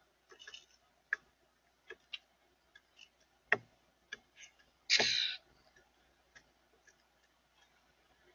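Birds at a feeder: scattered light taps and clicks, a sharper knock about three and a half seconds in, and one short harsh call about five seconds in.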